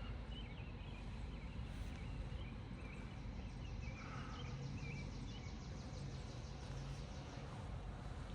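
Outdoor ambience: a steady background hiss with faint, scattered bird chirps and a fine, fast insect-like ticking.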